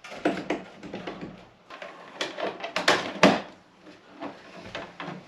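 Irregular knocks, clicks and clatter of hand work with tools and materials, loudest a little past three seconds in.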